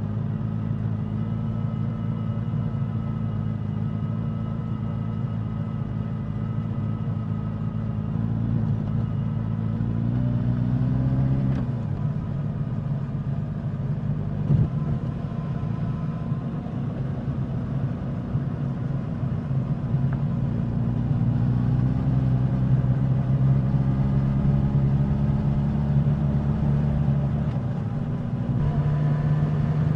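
Suzuki GSX-S1000's inline-four engine and exhaust while riding, mostly holding a steady note. The pitch climbs under throttle about ten seconds in, drops abruptly, then rises again a little after twenty seconds.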